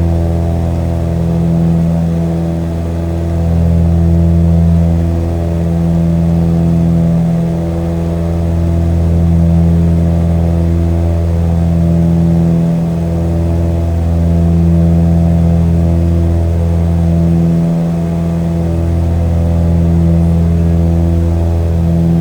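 Steady engine drone, loud and unbroken, with a slow swelling and fading every two to three seconds.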